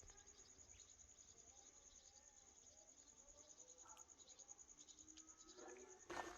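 Faint night insects, crickets, trilling steadily in a rapid, even pulse, with a brief sharp burst of noise near the end.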